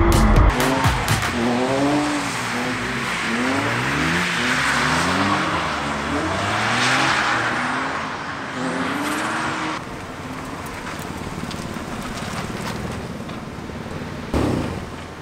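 BMW E46 328i's straight-six engine revving up and down again and again while the car drifts, over a haze of tyre noise. It drops quieter about ten seconds in, and a short loud burst comes near the end.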